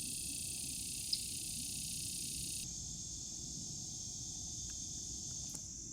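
Steady, high-pitched insect chorus of crickets and similar insects; its highest part drops away a little under halfway through.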